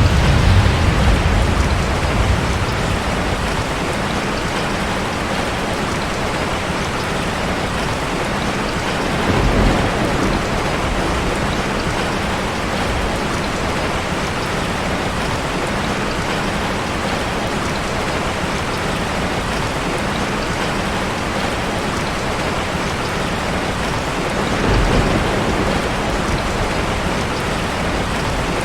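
Steady heavy rain hitting a car, with low rolls of thunder rumbling three times: at the start, about ten seconds in, and again near the end.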